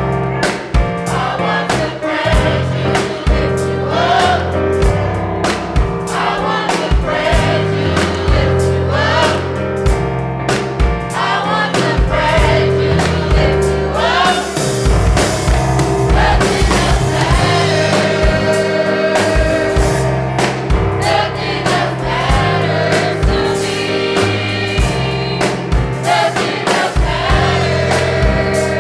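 Gospel choir singing with a live band: bass, keyboard and drum kit keeping a steady beat.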